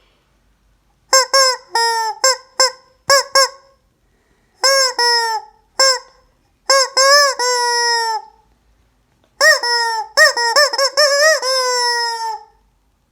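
Rubber squeaky chicken toy squeezed over and over, giving a string of loud honking squawks in four bunches with short pauses between. Some squawks are short, others drawn out with a pitch that rises and falls.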